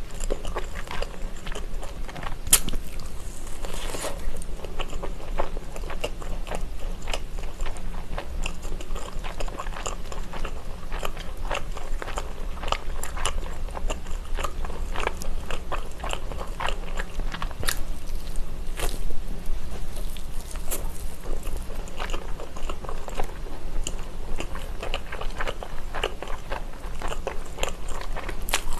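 Close-miked chewing and biting of a battered fried skewer, with irregular crunches and wet crackles that keep up throughout.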